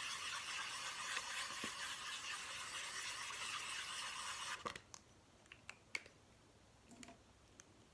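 Steady scratchy scribbling of colour being rubbed onto a paper plate. It stops about four and a half seconds in, and a few light clicks and taps follow.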